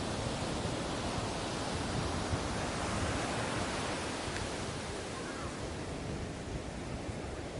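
Ocean surf washing onto a beach: a steady rush of breaking waves that swells slightly a couple of seconds in and eases off towards the end.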